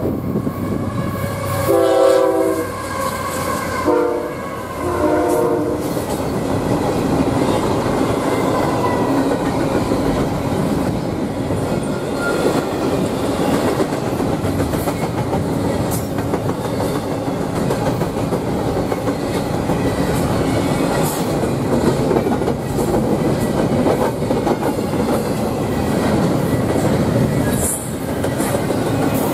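Freight locomotive horn sounding a few blasts in the first six seconds as a CSX intermodal train led by GE locomotives comes up, then the train passing close by: a steady loud rumble with the clickety-clack of wheels over the rails as the double-stack container cars roll past.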